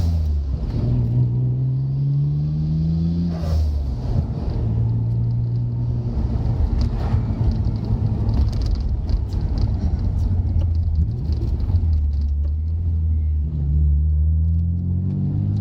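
Nissan Skyline GT-R's twin-turbo straight-six engine driving on the road. Its note climbs in pitch under acceleration, breaks off about three and a half seconds in, holds steady for a long stretch, then climbs again near the end.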